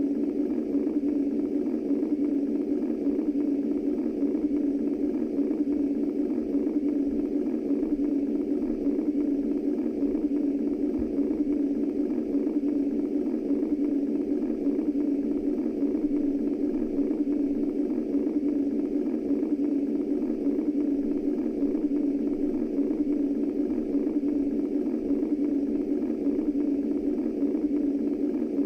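Womb-style white noise: a steady, low, muffled rushing sound centred in the low mids, with no breaks, beat or change in level.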